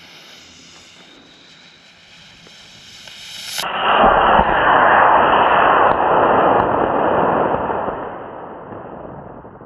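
D22 model rocket motor igniting about three and a half seconds in and burning with a loud, steady rushing noise, which fades over the last few seconds as the rocket climbs away.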